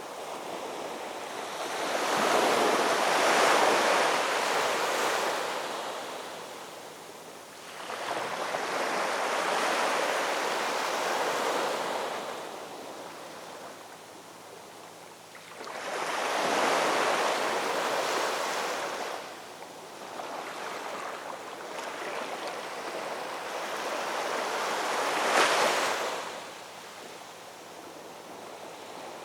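Ocean surf: waves breaking and washing up, a rushing hiss that swells and falls back about every seven to eight seconds, four surges in all, the last one sharpest.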